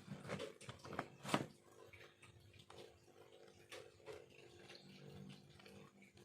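Knife carving bamboo, heard as irregular scraping and clicking strokes. The loudest strokes come in the first second and a half, with fainter scattered ticks after that, over a faint steady hum.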